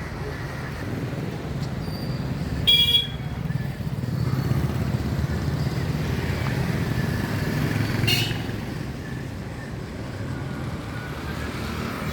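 Road traffic: vehicle engines, motorcycles among them, running steadily, with two short horn toots, the louder about three seconds in and another about eight seconds in.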